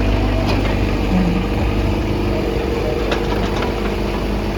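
Daewoo excavator's diesel engine running steadily at a low, even speed, with a few faint clicks over the hum.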